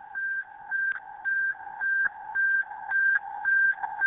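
Fire dispatch alert tone: two pitches alternating high-low, about two cycles a second, growing louder. It is the alert that comes before a structure fire dispatch.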